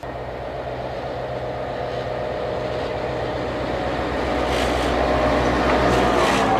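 Train rolling closer and growing steadily louder, a dense rumble of wheels and wagons on the rails with a low steady hum underneath.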